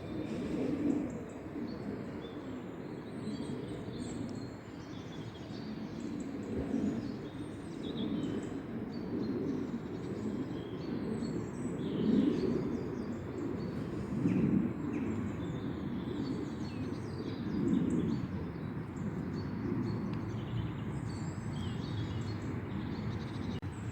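Woodland birdsong: many small birds chirping and calling over a steady low rumble that swells a few times.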